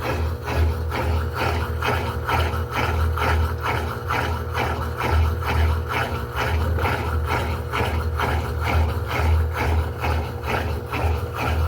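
Electrolux LED14 top-load washing machine agitating a load during its wash cycle: a low motor hum and churning water, pulsing evenly about three times a second.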